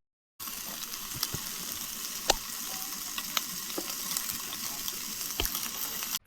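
Food sizzling in a hot pan, a steady hiss with scattered small pops and spatters.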